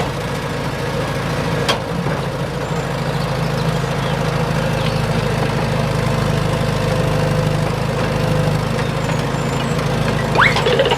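Heavy vehicle engine idling steadily, with a single short click about two seconds in.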